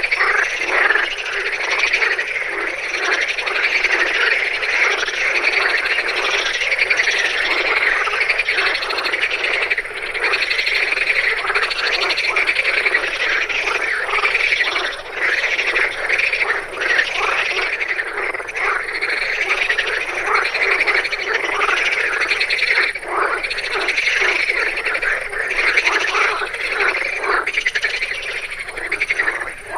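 A dense chorus of many frogs croaking, their short calls overlapping without a break.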